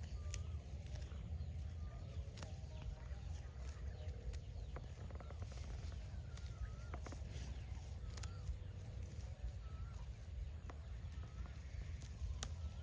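Outdoor rural ambience: short warbling bird calls repeat every second or two over a steady low rumble, with scattered sharp clicks.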